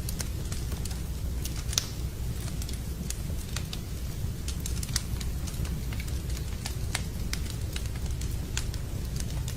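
Campfire of burning wood crackling, with frequent sharp pops scattered irregularly over a steady low rush.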